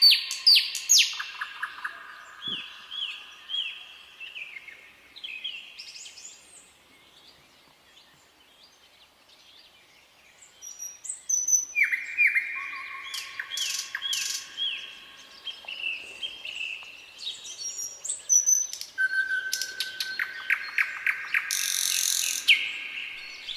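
Nightingale singing in phrases of rapid repeated whistled notes and trills. The song pauses for a few seconds near the middle, then resumes with fast repeated notes and a harsh rasping rattle near the end.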